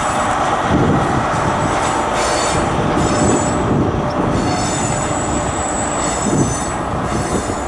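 High Speed Train (InterCity 125) pulling out with its trailing Class 43 power car: steady rumble of the train running over the track, with high wheel squeals coming and going several times.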